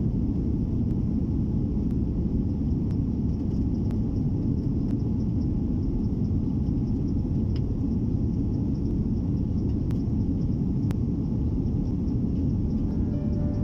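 Steady low rumble of an Airbus A330-300 airliner's engines and airflow heard inside the passenger cabin, with a few faint clicks.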